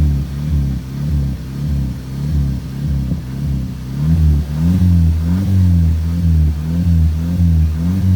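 VW car engine revved in quick repeated blips as the accelerator is pumped, its pitch rising and falling about twice a second. From about halfway through the revs come slightly slower and fuller.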